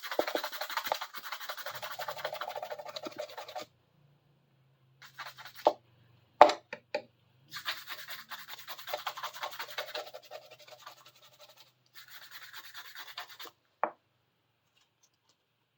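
Brisk scrubbing strokes on a small hand saw being cleaned, in three spells, with a few sharp knocks in between, the loudest about six seconds in, as the saw is handled.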